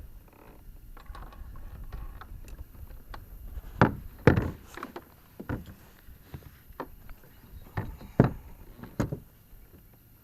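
A string of irregular knocks and thumps on a fishing kayak, about eight of them in the second half, the loudest about four seconds in.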